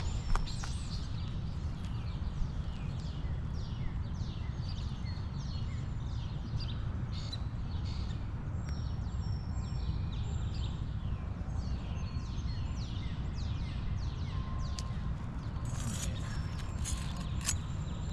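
Small birds chirping repeatedly over a steady low rumble, with a few sharp clicks near the end.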